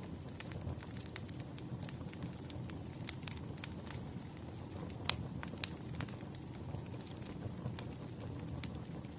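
Burning firewood crackling: a steady low rumble of flames with frequent irregular snaps and pops, one sharper pop about halfway through.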